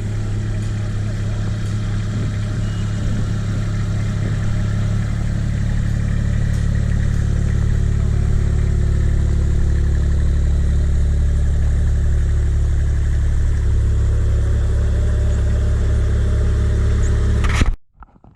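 Large truck engine running steadily. Its speed drops about five seconds in and rises again near the end, and then the sound cuts off suddenly.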